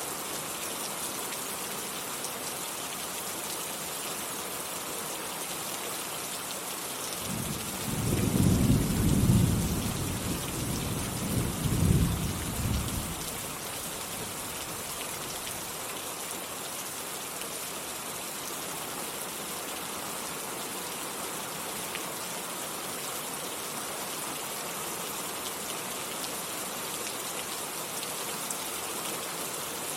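Steady rainfall with a roll of thunder about seven seconds in, a low rumble that swells twice and fades out about six seconds later.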